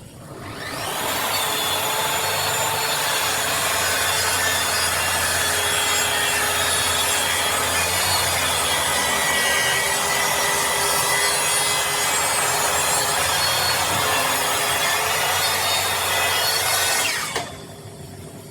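Loud power tool running on a construction site, a steady rasping noise that builds up over about a second and cuts off abruptly near the end.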